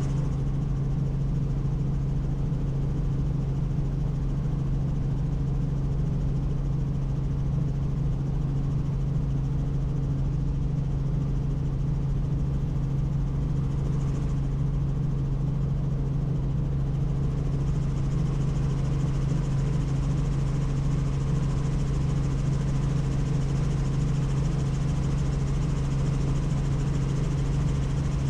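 Helicopter in flight heard from the cabin: a steady drone of rotors and engine with a strong, unchanging low hum.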